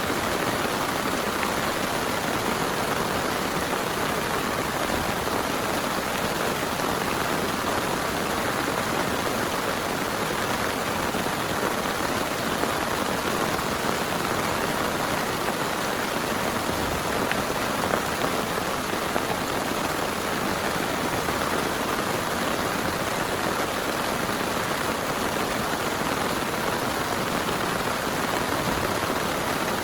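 Heavy rain pouring steadily, a dense, even hiss of drops.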